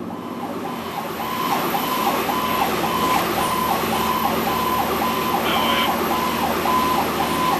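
Fire engine siren wailing in a fast yelp, about three falling sweeps a second, over the truck's engine and road noise. It swells up over the first couple of seconds.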